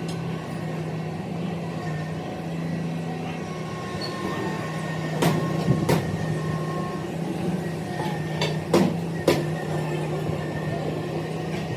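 A steady mechanical hum, with a few sharp knocks about halfway through and again later.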